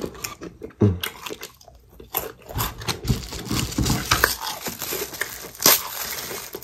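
Crispy fried chicken crunching and being chewed close to the microphone: a string of sharp, crisp crunches at irregular intervals.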